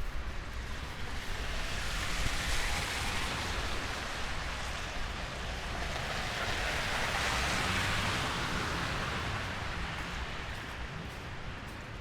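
Rushing hiss of snowstorm street noise that swells twice, the second time with a low engine hum beneath it.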